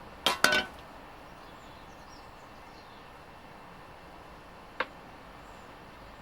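Two quick metallic clinks with a brief ring about half a second in, then a single sharp click near the end, from metal parts being handled during the teardown of a parts washer tank.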